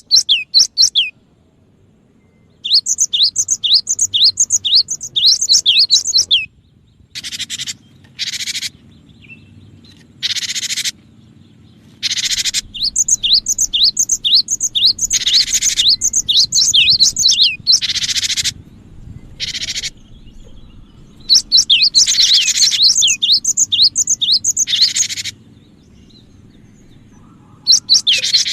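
Cinereous tit (gelatik batu) calling: quick runs of short, high-pitched falling chirps alternating with harsh, buzzy notes, starting and stopping in bouts.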